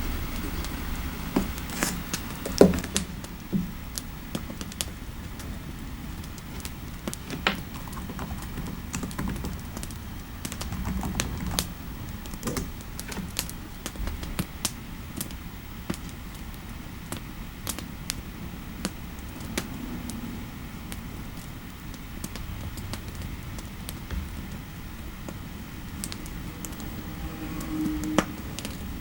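Computer keyboard typing: irregular keystrokes, some sharper and louder than others, over a steady low fireplace ambience.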